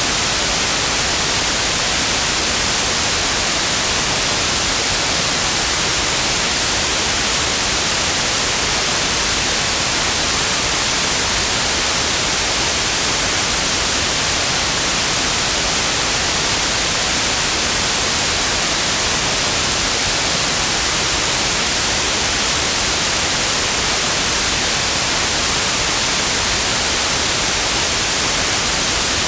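Steady, unchanging white noise: an even hiss with most of its energy in the high frequencies, generated for sleep and relaxation.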